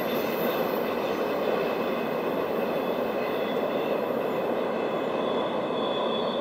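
Freight train cars rolling past on a curve: a steady rumble of steel wheels on rail, with faint high-pitched wheel squeal running through it.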